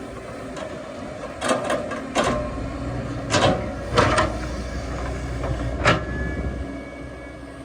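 Excavator engine running steadily, with a series of sharp clanks and knocks, about seven of them between one and six seconds in.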